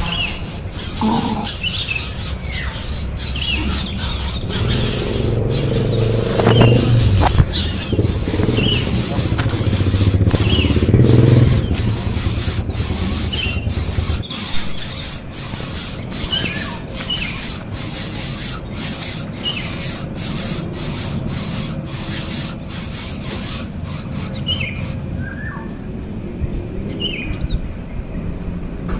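Small birds chirping in short, scattered calls over a steady insect buzz, with a low motor rumble, like a passing vehicle, in the first half that fades out about halfway.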